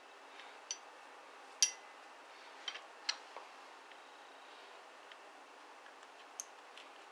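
A handful of sharp, light metallic clicks and clinks with a brief high ring, about five spread irregularly, over a faint steady hiss; the second is the loudest.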